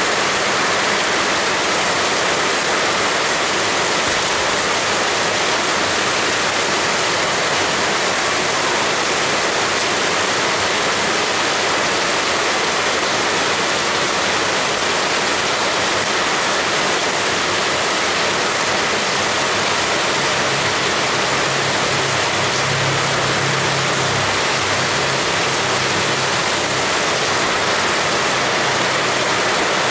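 Heavy rain pouring steadily, a dense even hiss. A low hum joins in during the last third.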